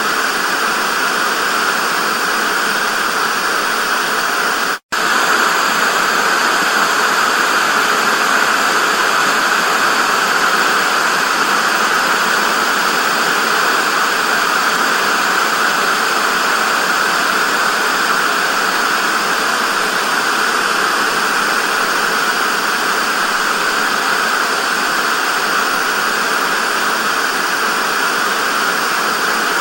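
TV static: a steady, loud hiss with a momentary cut to silence about five seconds in.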